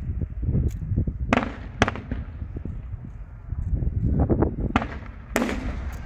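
Aerial fireworks going off: deep booming shell bursts with sharp cracks and pops, several loud cracks standing out, over a continuous low rumble of the display.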